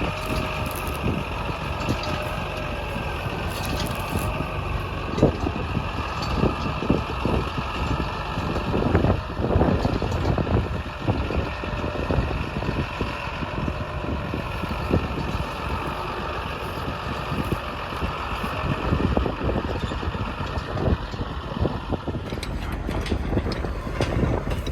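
Tractor engine running steadily with a steady high whine, while the harrow is unfolded, with irregular clanks and knocks from its sections moving. The whine stops near the end.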